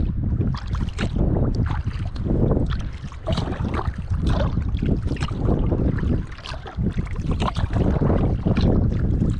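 Kayak paddle strokes dipping and splashing in the water, with a splash about every second, over wind buffeting the microphone.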